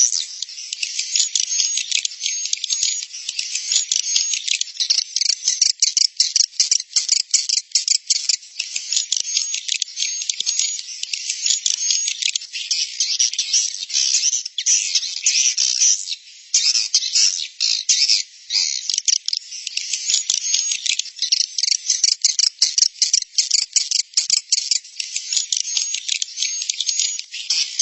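Recorded swiftlet calls: a dense, high-pitched stream of rapid chirps and twitters, with two brief lulls past the middle. This is a 'suara inap' roosting call, played to lure swiftlets into a swiftlet house.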